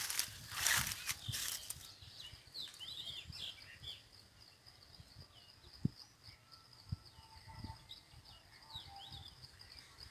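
Small birds chirping in short, quick notes over a steady high insect-like drone. Loud rustling noise fills the first two seconds, with a couple of soft low bumps later.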